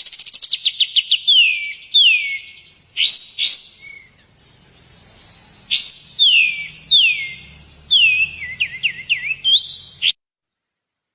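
A songbird singing: a fast run of high chirps, then repeated downward-sliding whistled notes with quicker slurred notes near the end. The song cuts off abruptly about ten seconds in.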